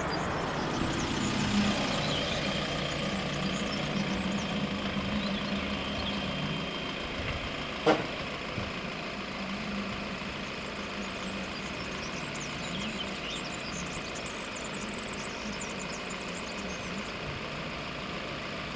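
Engine running steadily, its hum fading after the first several seconds, with one sharp click about eight seconds in.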